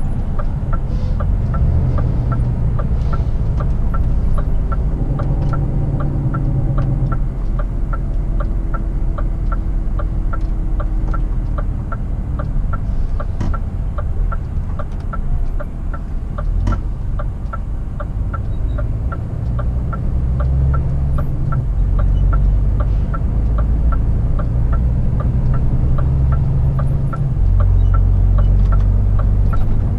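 Scania R450 truck's 13-litre inline-six diesel running at road speed, heard from inside the cab, with a steady ticking about twice a second from the turn-signal indicator. The engine drone swells and eases, and a lower tone slowly falls in pitch in the first half.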